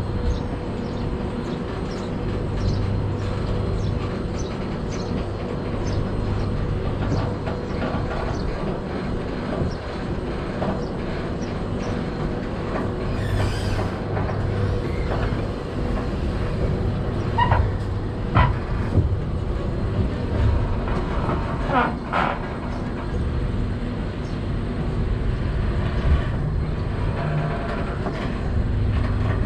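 Passenger train running along the track: a steady low rumble with irregular knocks and clacks from the wheels, a few sharper ones past the middle.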